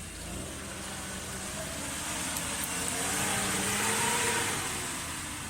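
Off-road 4x4's engine revving hard under load, getting louder and higher in pitch to a peak about four seconds in, then easing off, over a broad rushing noise.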